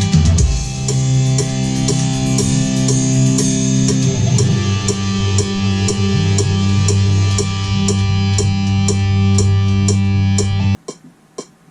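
Studio playback of a song in progress: guitars over sustained bass notes and a drum kit's steady, even beat. The music stops abruptly near the end.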